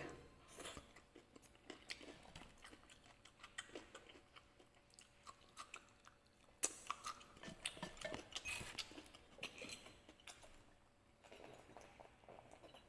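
Faint chewing and mouth sounds of a man eating, with scattered soft clicks, one sharper click about halfway through. Near the end he drinks from a glass bottle.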